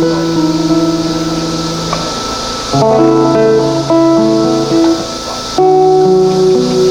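Live band playing a song's instrumental introduction, with no singing: held chords that change to a new chord about every three seconds.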